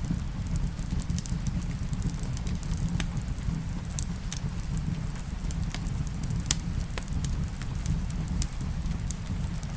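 Wood fire crackling in a fireplace: irregular sharp pops and snaps, one louder pop about two-thirds of the way through, over a steady low rumble mixed with rain on the cabin roof.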